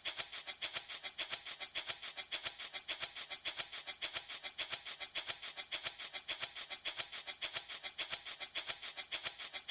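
Handmade baby rattle shaken continuously in a steady, fast, even rhythm, each shake a short bright rattle of beads.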